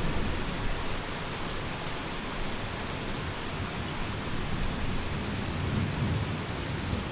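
Heavy rain falling steadily, with low distant thunder rumbling: one swell right at the start and another about five to six seconds in.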